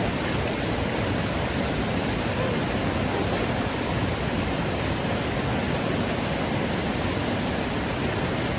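Stream water rushing steadily, an even unbroken roar of flowing water.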